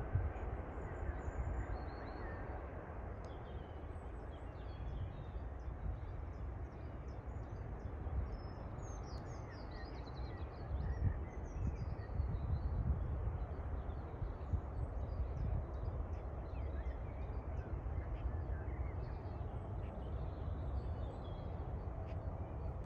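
Many small bird chirps and calls over a steady low rumble.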